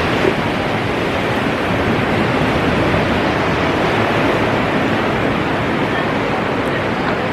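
Ocean surf washing onto the beach, a steady, even noise with no breaks.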